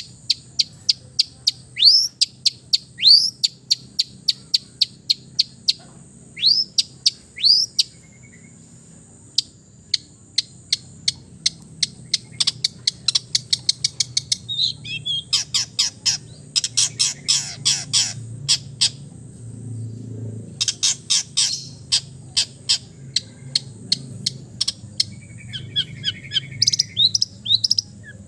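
Long-tailed shrike (cendet) singing a varied, busy song of rapid repeated chirps, downward-sweeping whistles and fast chattering trills, with mimicked calls of other birds woven in. A faint steady high tone runs behind it until near the end.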